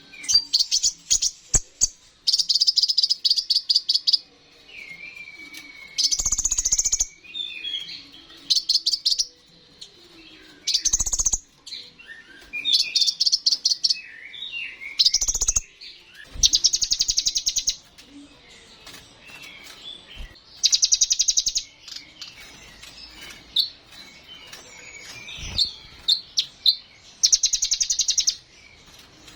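Kolibri ninja (a small sunbird) singing a long song. It sings about eight bursts of fast, high, buzzy trills, each about a second long, with thin twisting whistled notes between them. The song is full of the mimicked phrases that keepers train into these birds.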